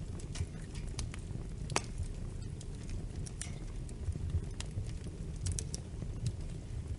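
Wood fire in a fireplace crackling: a steady low rumble of burning with irregular sharp snaps and pops, the loudest pop about two seconds in.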